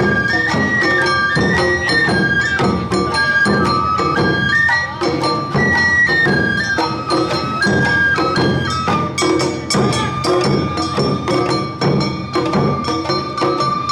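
Awa odori narimono band playing: a stepping flute melody over regularly struck drums and clanging hand gongs in a quick, even beat.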